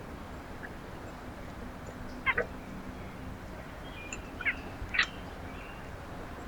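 Wild birds calling at a backyard feeder: a few short, loud, harsh calls, a pair a little over two seconds in and two more around the five-second mark, over faint chirping and a steady low background hum.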